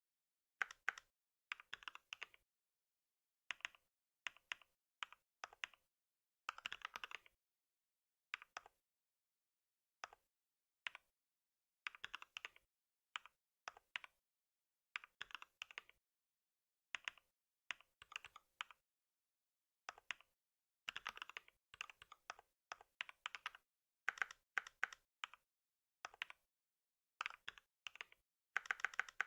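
Computer keyboard typing in short runs of keystrokes with brief pauses between them.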